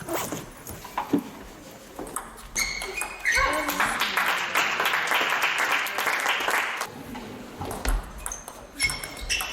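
Table tennis ball clicks off bats and the table in a short rally, with rubber shoe soles squeaking on the hall floor, then a few seconds of crowd noise from the spectators before more shoe squeaks near the end.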